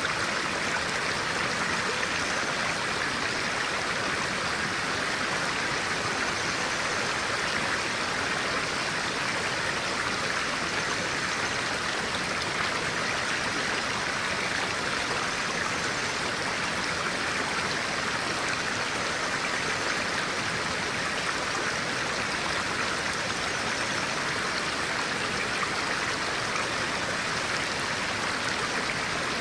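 A stream of clear water running steadily over rocks, an even rushing sound with no break.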